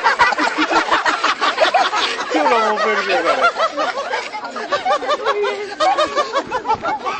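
A group of small birds chirping and chattering, with many quick, overlapping rising-and-falling calls.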